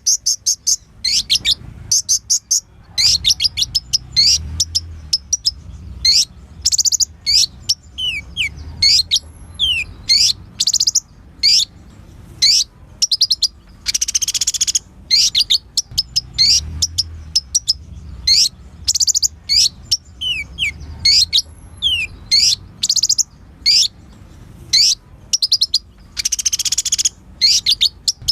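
Kolibri ninja (purple-throated sunbird) singing a dense, fast song of high chirps and rapid trills, with short falling whistled notes and two longer buzzy trills, about halfway through and near the end.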